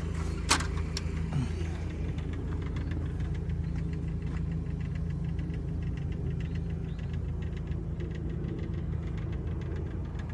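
Steady low engine hum of an idling vehicle, with one short sharp click about half a second in.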